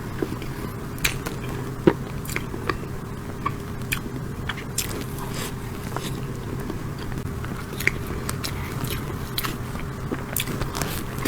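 Close-miked eating of chocolate tiramisu: chewing and biting with scattered sharp clicks, over a steady low hum.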